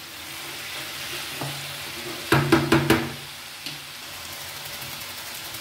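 Mashed raw jackfruit with onion and tomato sizzling steadily as it is stir-fried in a nonstick pan. A little past two seconds in comes a quick run of about five sharp knocks from the spatula striking the pan.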